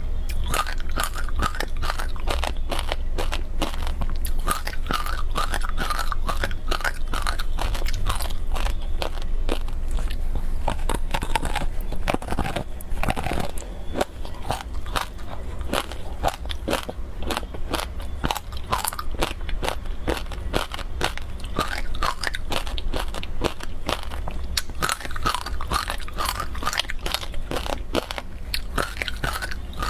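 Frozen passion fruit ice being bitten and chewed close to the microphone: a dense, continuous run of sharp crunches and crackles.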